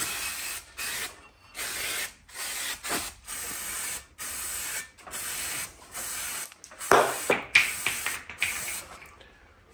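Aerosol brake cleaner sprayed onto a brake disc in a run of short hissing bursts with brief gaps. About seven seconds in, a loud clatter as the brake caliper's dust cap falls.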